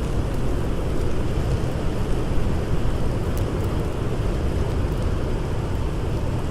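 Steady, deep rumble of blizzard wind blowing hard, with a few faint crackles from a fire.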